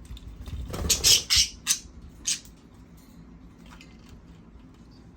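Pet birds giving a quick run of four or five loud, harsh squawks within about a second and a half, then falling quiet.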